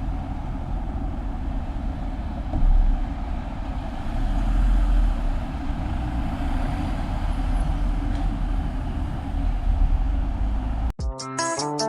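Motorcycle on the move: wind buffeting the microphone over engine and road rumble, steady with a louder gust of wind about 2.5 s in. Music cuts in about a second before the end.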